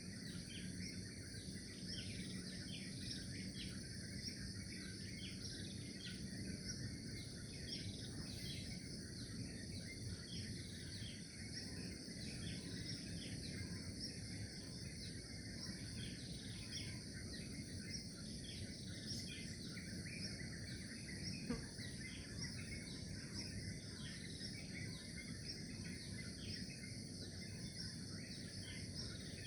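Natural outdoor ambience of small birds chirping in short repeated calls over a steady high insect trill, with a low, even background hiss. One brief click about two-thirds of the way through.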